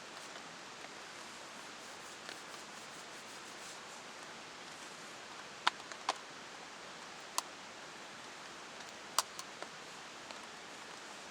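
Steady hiss of heavy rain, with a few sharp clicks a little past the middle.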